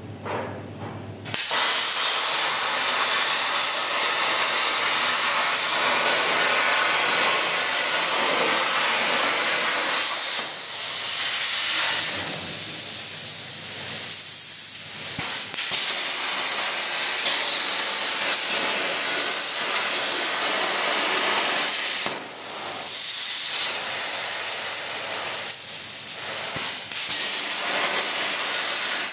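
CNC plasma torch cutting 2 mm steel plate: a loud, steady hiss of the arc and air jet that starts suddenly about a second in. It dips briefly a few times along the way.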